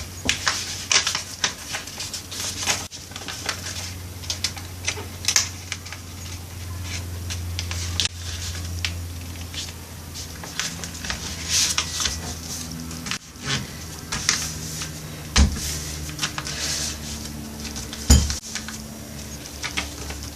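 Paper airplane being folded and creased by hand: rustling and crinkling of paper with many scattered crackles. There are two sharper knocks in the second half, over a steady low hum.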